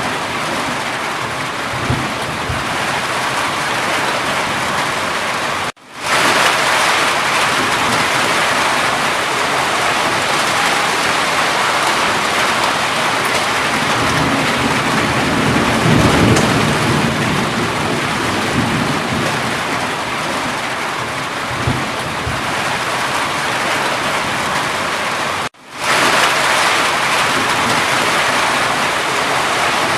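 Steady heavy rain falling, with a low rumble of thunder around the middle. The sound cuts out for a moment twice, about six seconds in and near the end, then fades back in.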